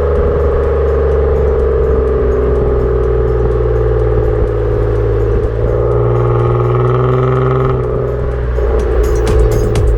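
Kia K7 3.0 V6 gasoline engine running through a custom cat-back dual-valve exhaust while driving under load: a loud, steady exhaust note whose pitch slowly sags. The pitch jumps about halfway through and shifts again near the end.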